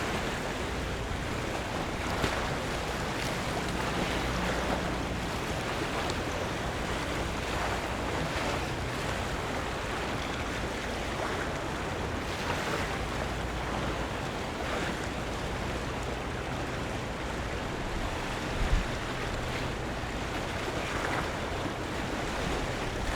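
Harbour water lapping and washing against the waterfront, an even wash of noise that swells softly now and then, with wind buffeting the microphone and a steady low hum underneath. One brief low thump about two-thirds of the way through.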